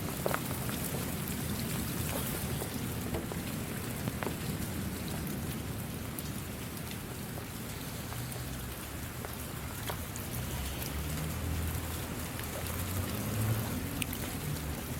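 Steady rain falling, with scattered sharp drop hits close by. A low rumble swells in the second half.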